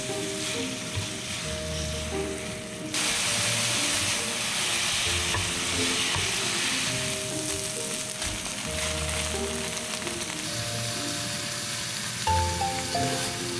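Food frying in a hot pan, a steady sizzle that turns louder and brighter about three seconds in and eases off near the end, over soft background music.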